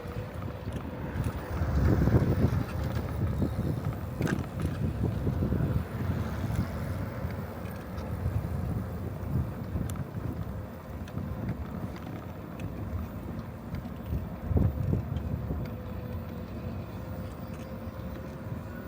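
Wind buffeting the microphone of a camera carried on a moving bicycle, a low rumble with stronger gusts about two seconds in and again about fifteen seconds in. A faint steady whine sits underneath.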